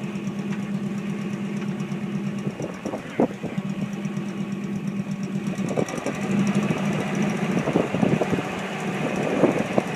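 An engine running steadily, with several sharp knocks about three seconds in and a cluster of further knocks in the second half.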